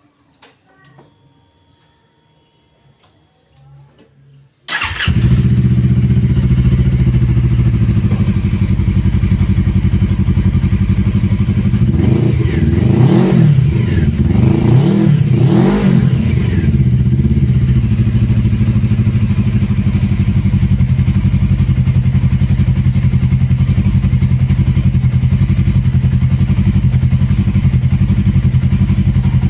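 Suzuki Inazuma 250's parallel-twin engine through a custom exhaust: it starts suddenly about five seconds in, idles, is revved twice, each rev rising and falling, then settles back to a steady idle.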